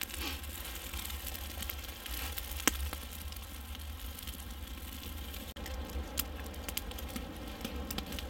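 Campfire crackling with scattered sharp pops, one louder pop about two and a half seconds in. The wood is still wet, which makes it keep popping.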